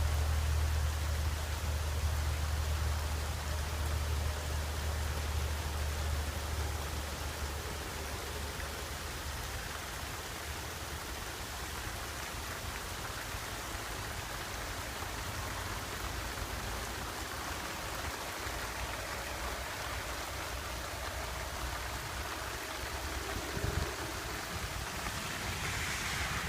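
Steady rain falling, an even hiss of water. A low rumble runs under it for the first several seconds and then fades, and there is one brief knock near the end.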